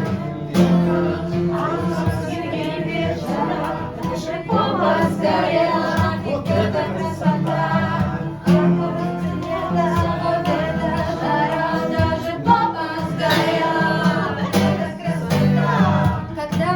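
A song: several voices singing together, male and female, over a steadily pulsing instrumental accompaniment.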